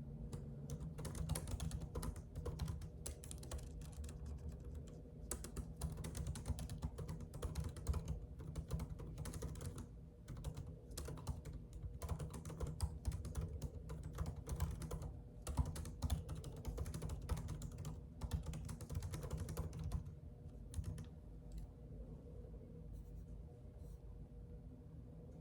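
Typing on a computer keyboard: a fast, uneven run of key clicks that thins out to a few scattered keystrokes near the end, over a faint low steady hum.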